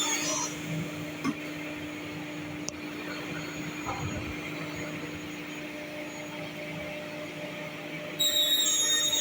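Sliding table panel saw's motor running steadily with a low hum, with a faint click and a low knock partway through. Near the end a louder sound with high steady tones cuts in abruptly.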